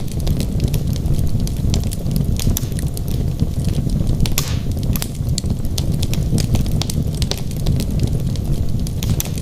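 Wood fire burning in a fireplace: a steady low rumble of flames with frequent sharp crackles and pops from the burning logs, plus a larger pop a little over four seconds in.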